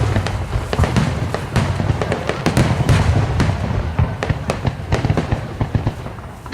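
A dense barrage of aerial firework shells bursting in rapid succession, as in a starmine display: a continuous run of sharp bangs and crackles over a heavy low rumble.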